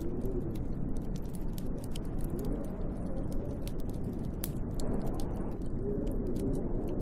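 Snowstorm wind howling outside a window: a deep, steady rush with gusts whose pitch wavers up and down, and a sprinkling of faint sharp clicks and ticks throughout.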